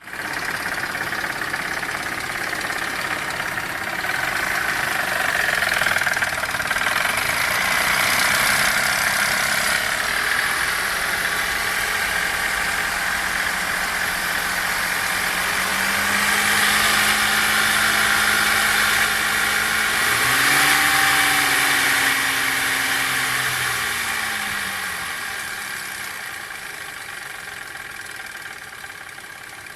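Warmed-up Chevrolet Captiva 3.2 V6 engine running evenly with a knock from the timing-chain side, its cause unknown and no fault codes set. The engine speed rises about two-thirds of the way through, then settles back.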